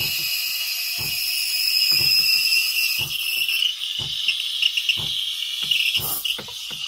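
Breville Barista Max steam wand hissing as it steams and froths milk in a jug. The hiss shifts about three seconds in, and low knocks come about once a second beneath it.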